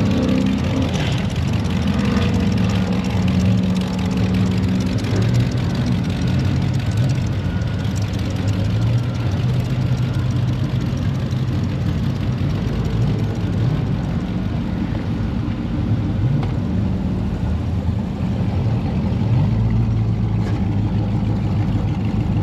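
Car engines idling and revving, a steady low rumble whose pitch rises and falls.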